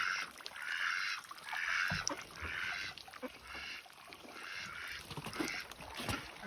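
Farm waterfowl calling: a run of about seven short, honking calls, roughly one a second.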